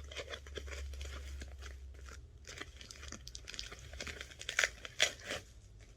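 Packing material being handled and unwrapped by hand, a run of irregular crinkling and crackling with a few louder crackles near the end.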